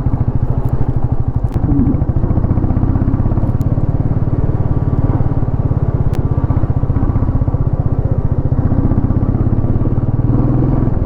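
Motorcycle engine running steadily while riding, a fast, even pulsing throb with a few faint clicks over it.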